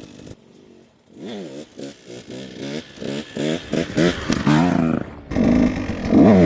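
KTM dirt bike engine revving in quick repeated blips, its pitch rising and falling, starting about a second in and getting louder near the end.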